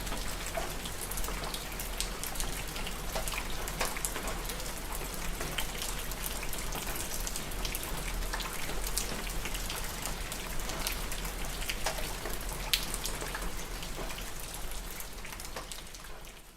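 Steady rain falling, with many individual drops pattering sharply on a surface. It fades out near the end.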